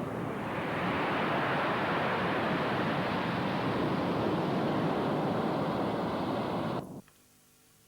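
Steady rushing noise of wind and water, which cuts off abruptly about seven seconds in.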